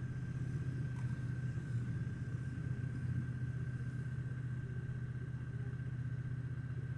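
Triumph Bonneville T120's 1200 cc parallel-twin engine running at a steady cruise, with road and wind noise.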